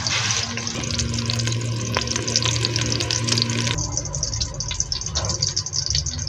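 Chopped red onions frying in an aluminium cooking pot: a steady sizzle full of small crackles, turning duller about four seconds in.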